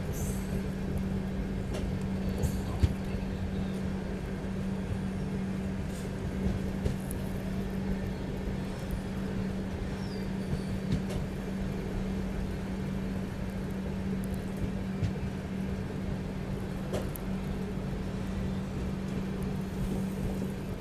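Passenger train running: a steady rumble with a constant low hum and a few light knocks.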